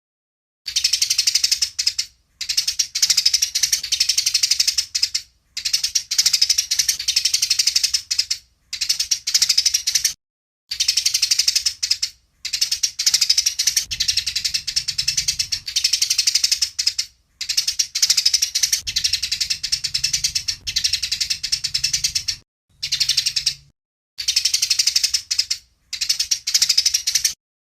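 Eurasian tree sparrows chattering in rapid, dense strings of chirps: the fighting calls used as training recordings. The chirping comes in bouts of one to three seconds, cut apart by short gaps of dead silence.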